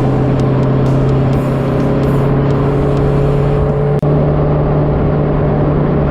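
Turbocharged LS V8 in a stock car running at a steady speed with a low, even drone. About four seconds in the pitch steps up a little after a short click.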